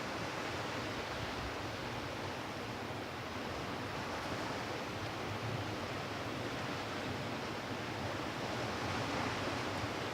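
Waves of the Cantabrian Sea washing onto a beach: a continuous even rush of surf that swells a little in places.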